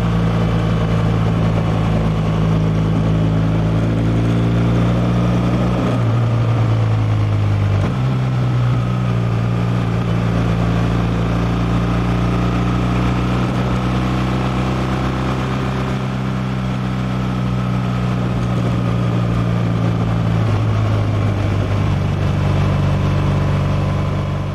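BMW R1200R LC's 1170 cc boxer twin running while riding, a steady engine note with the raw rush of air behind it. Its pitch drops and picks back up about a quarter of the way in, and shifts again near the end.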